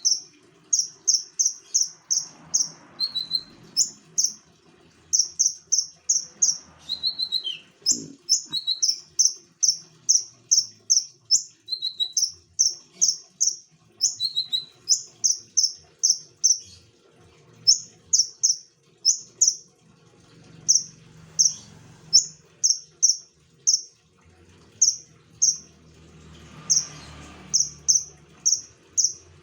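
Konin songbird singing energetically: a long run of short, high chirps, about two to three a second, broken now and then by a slightly lower note.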